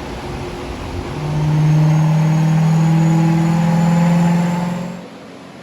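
Twin-turbocharged V8 of a 2006 Corvette Z06 running, rising to a louder steady note about a second in, then dropping away near the end.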